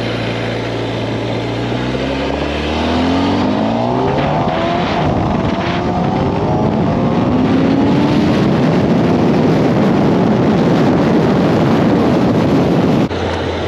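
2020 Kawasaki ZX-10R's 998 cc inline-four, breathing through an SC Project slip-on exhaust, accelerating hard. The revs climb and drop back several times as it shifts up, then make one long climb. About thirteen seconds in the throttle is shut suddenly and the engine falls back to a low steady note.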